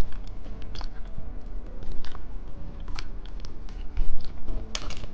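Crinkling and clicking of plastic candy packaging being handled, in short irregular crackles with a louder cluster near the end, over a steady low hum.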